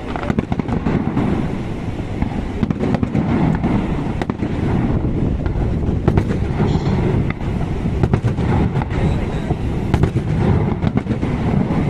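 Fireworks going off: many sharp irregular pops and crackles over a steady low rumble.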